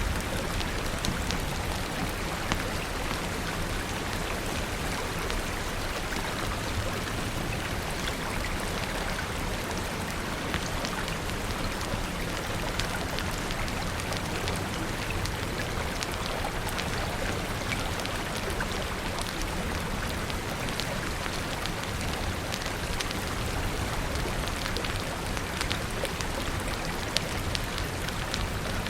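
Steady rain falling, an even hiss with many small sharp clicks and ticks scattered through it.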